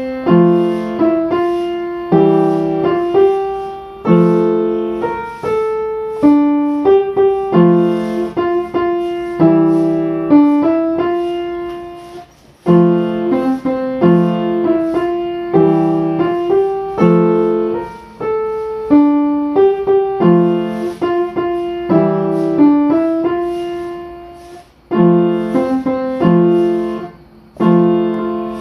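Solo piano music: struck notes and chords in repeating phrases, each note fading after it is struck, with short pauses between phrases.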